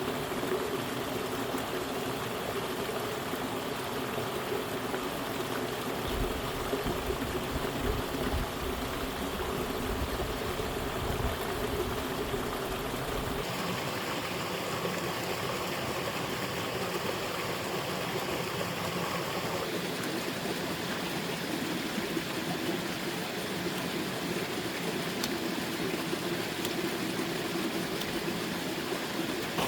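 Steady rushing of flowing water, like a stream, whose sound changes abruptly about 13 seconds in and again about 20 seconds in.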